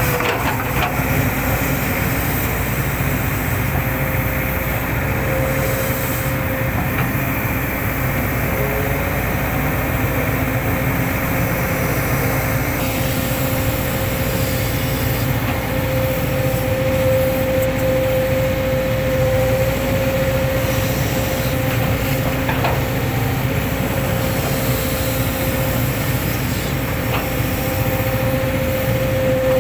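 Hitachi hydraulic excavator's diesel engine running steadily, with a constant whine over the low rumble.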